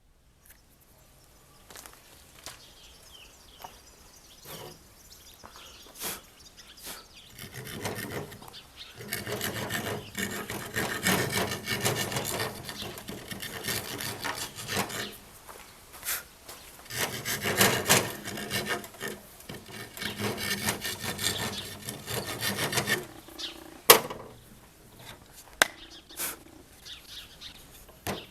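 A hand tool rasping back and forth on wood in repeated strokes: faint and scattered at first, then steady stroking through the middle with a short pause. A single sharp knock comes near the end.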